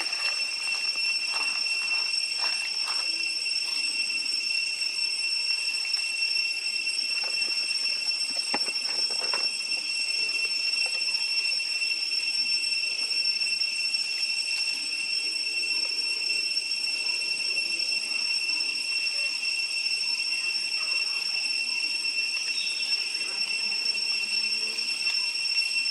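Steady high-pitched insect drone holding a constant pitch, with a few faint clicks and knocks in the first ten seconds.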